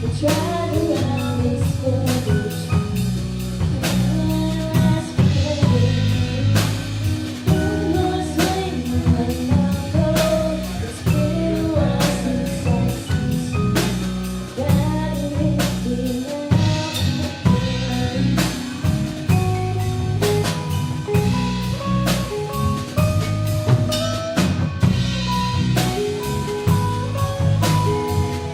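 Live rock band playing a song: a drum kit keeps a steady beat with rimshots under bass and melodic guitar lines.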